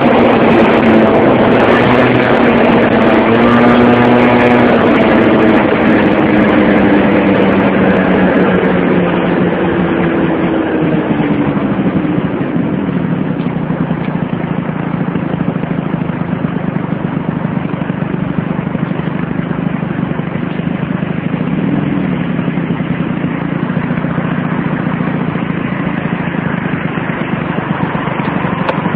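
Motorcycle engine running, its pitch falling over roughly the first ten seconds and then holding steady, with a constant rush of road noise.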